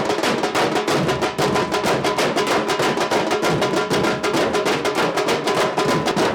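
A group of drummers playing a fast, dense, driving rhythm with many strokes a second and no break.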